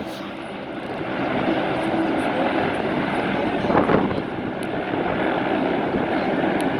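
A steady engine drone, with a brief louder swell about four seconds in.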